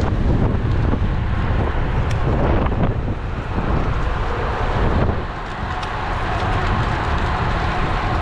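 Wind buffeting an action camera's microphone on a moving road bike: a heavy, steady rumble, easing briefly a little after five seconds in, with road and traffic noise beneath it.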